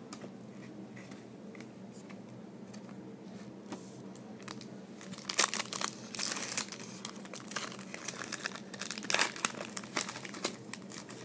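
Crinkly card-pack wrapper or plastic sleeve being handled by hand: a few light crackles at first, then a busier run of crinkling and tearing through the second half.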